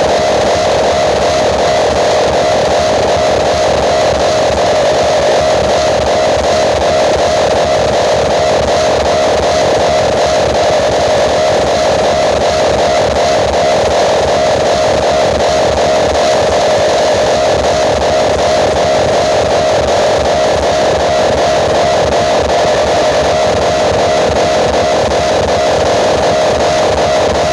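Large outdoor-cinema PA speaker rigs blasting music head-to-head in a sound-system face-off. The sound is a loud, steady, dense wash, strongest in the midrange, with no clear beat standing out.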